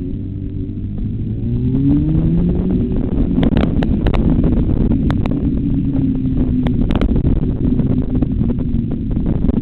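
Motorcycle engine accelerating hard: its note climbs over about two seconds, then holds high under a dense low rumble, with a few sharp clicks in the middle.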